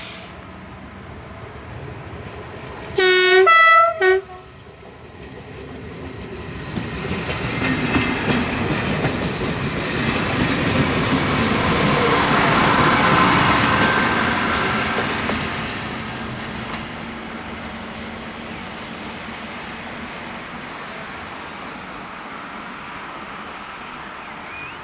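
X4300 diesel multiple unit sounding its horn, one long blast and a short one, then passing with the noise of its running and wheels clicking over rail joints, which builds to a peak about halfway through and fades away.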